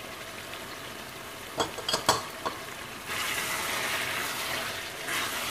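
Chicken masala frying in a metal pan and being stirred with a wooden spatula: a steady sizzle with a few light knocks about two seconds in, the sizzle growing louder from about three seconds in as the stirring churns it.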